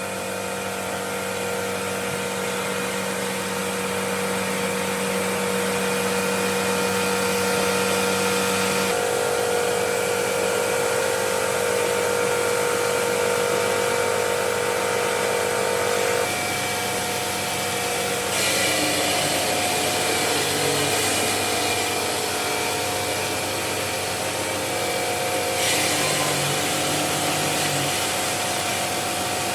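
Steady hum and whine of industrial stone-working machinery running, its pitch and tone shifting abruptly several times.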